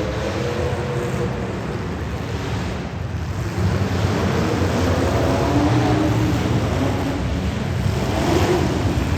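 Street stock race car engines running hard, their pitch rising and falling as they accelerate and lift, over a steady low rumble.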